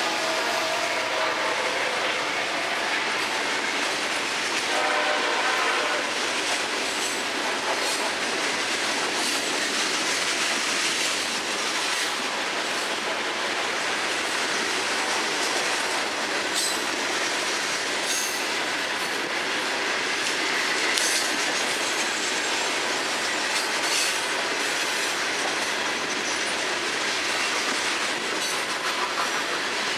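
Freight train of loaded hopper cars rolling past close by: a steady rumble of steel wheels on rail, with scattered knocks and clanks from the wheels and couplers. Faint pitched sounds are heard in the first few seconds.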